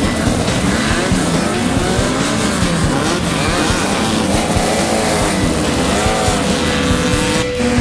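Class 11 VW Beetle's air-cooled flat-four engine revving up and down under load, heard from inside the car, with many knocks and rattles throughout. The pitch settles steady just before the end.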